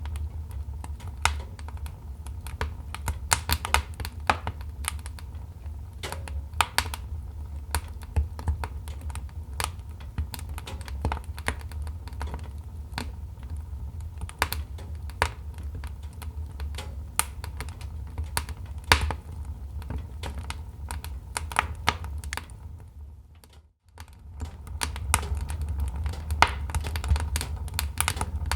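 Wood fire crackling: irregular sharp pops and snaps over a low steady rumble. Near the end the sound fades out almost completely for about a second, then comes back.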